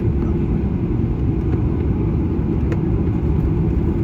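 Steady low rumble inside the cabin of a Boeing 737-800 airliner.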